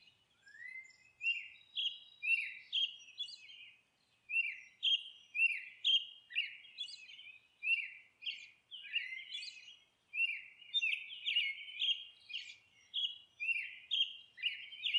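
Small birds chirping: a steady stream of short, high chirps that drop in pitch, about two or three a second.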